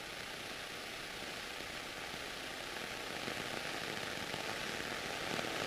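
Cessna cabin noise during takeoff or climb-out: a steady, even hiss of engine and airflow with no distinct engine tone, slowly growing louder.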